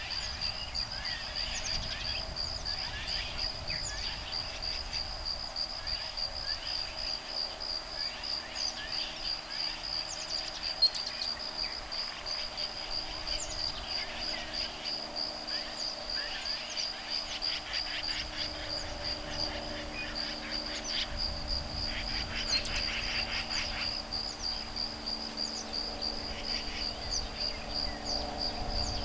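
An insect, likely a cricket, trills steadily on a fast pulsed high note under many short bird chirps and bursts of rapid chatter: woodpecker nestlings and parents calling back and forth. A single sharp click comes about 11 seconds in, and a faint low hum joins in the second half.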